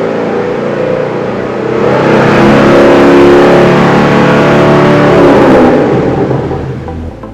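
A car's engine and performance exhaust running, with a Varex variable muffler fitted. The exhaust note swells louder about two seconds in, holds, then fades near the end, like a car driving past.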